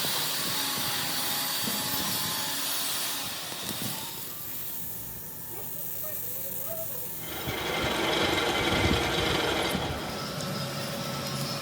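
Metalworking machinery noise in a factory: a steady mix of machine hum and hiss that shifts in the middle and grows louder about two-thirds of the way through.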